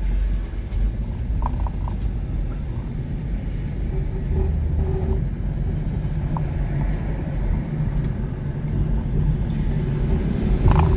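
Car engine and cabin rumbling with a deep, steady drone that comes up suddenly at the start, heard from inside the car while the car is acting up.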